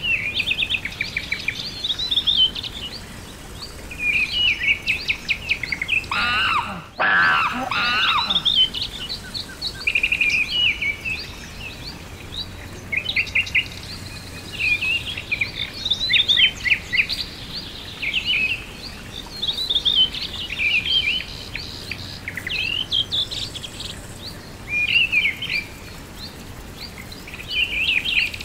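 Songbirds singing: short phrases of rapid high chirps and trills, one after another every couple of seconds, with a lower call about six to eight seconds in.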